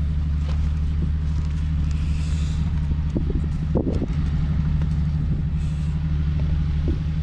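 A vehicle engine running at a steady low idle, an even low hum.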